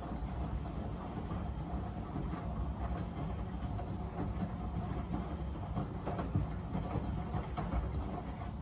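Miele W Classic WDA211WPM front-loading washing machine running its wash, the drum turning with a steady motor hum and rumble and irregular small knocks from the tumbling load.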